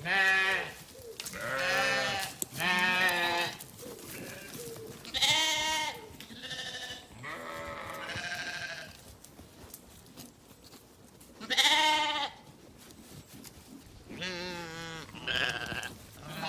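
Livestock bleating in a series of short, quavering calls, some overlapping. The loudest come near the start and about twelve seconds in, with a lull before that last loud call.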